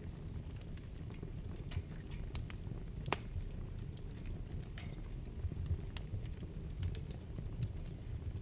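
Wood fire burning in a fireplace, crackling with irregular sharp pops and snaps over a low steady rumble; one pop about three seconds in is louder than the rest.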